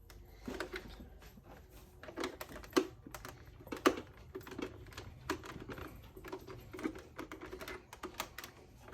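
Irregular small clicks and taps of a screwdriver working the screws and plastic battery-box cover of a Kawasaki Sax-A-Boom toy saxophone.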